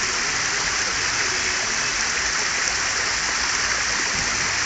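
Sea waves washing onto a beach, a steady rushing hiss with no distinct breaks.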